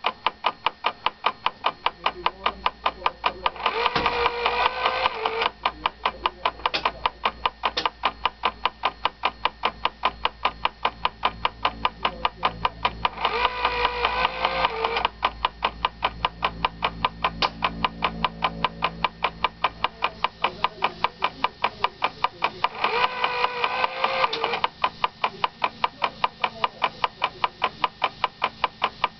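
MGO V12 diesel engine of an RGP railcar running just after a cold start: a steady, even clatter about three to four beats a second over a low rumble. About every ten seconds a wavering, higher pitched sound joins in for a second or two.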